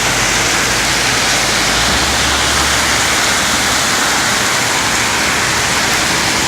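Heavy downpour of rain, a steady, even hiss.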